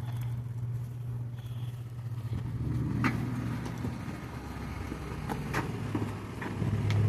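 A motor vehicle's engine running steadily, easing off in the middle and swelling again near the end. Several light clinks sound over it as scrap metal is handled.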